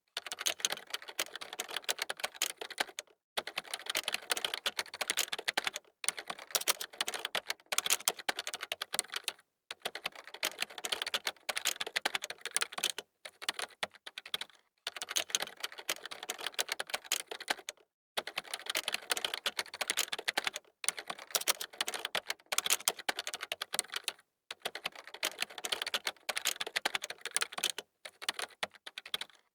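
Computer keyboard typing: fast runs of key clicks broken by brief pauses every second or two.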